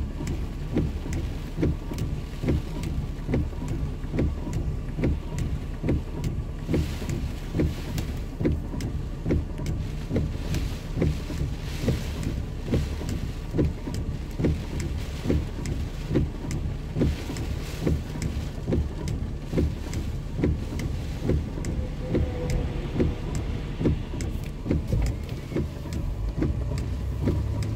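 Heavy rain pelting a vehicle, heard from inside, over a steady low rumble of the vehicle and the wind, with a regular pulse in loudness roughly once a second.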